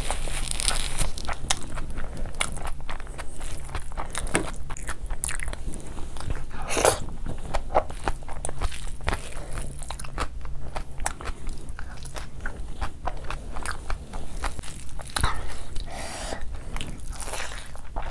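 Close-miked chewing and biting of a person eating prawn and vegetable fried rice by hand: a dense, uneven run of small clicks and crunches.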